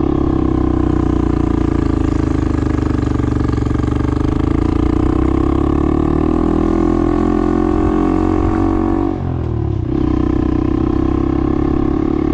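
Honda Monkey's single-cylinder engine running steadily while riding, with a brief dip in the engine note about nine seconds in before it picks up again.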